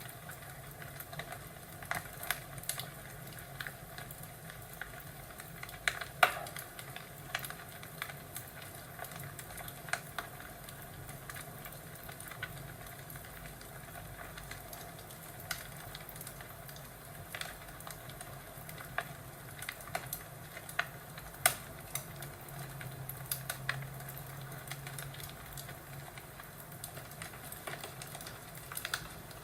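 Crackling fireplace: wood fire popping and snapping at irregular intervals over a steady soft hiss, with a few louder pops.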